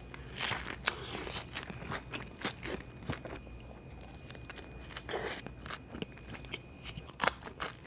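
Close-up eating sounds: irregular sharp crunches of someone biting and chewing crispy fried food.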